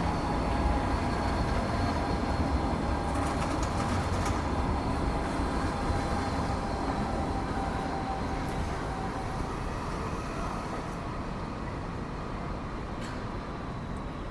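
Sydney light rail tram running at a street stop: a low rumble with a faint electric whine that stops about nine or ten seconds in, the whole sound slowly growing quieter.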